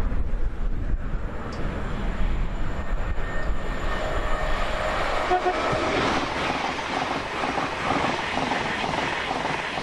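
Thameslink Class 700 electric multiple unit approaching at speed and passing close by, its rumble and wheel-on-rail noise building from about three seconds in. A short horn note sounds about halfway through. Wind rumbles on the microphone at the start.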